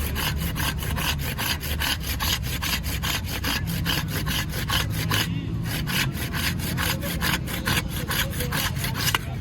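Fast, even rasping strokes, about five a second, with a brief break about five seconds in, over a steady low hum.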